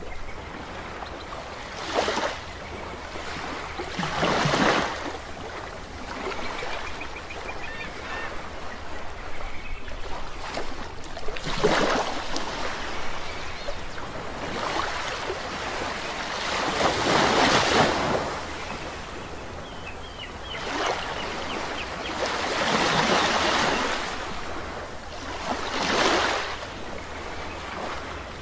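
Sea waves breaking and washing up on a beach, swelling every few seconds, with a few faint bird calls.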